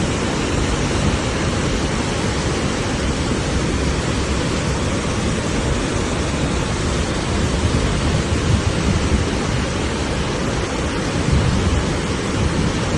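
The Beas river in flood, its swollen water rushing past in a loud, steady rush of noise with a low rumble underneath.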